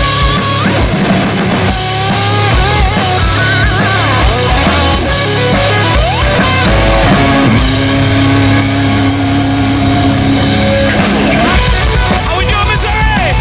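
A live rock band playing an instrumental stretch: electric guitars, bass and drum kit, with guitar notes bending and sliding, and fast, heavy kick-drum pulses near the end.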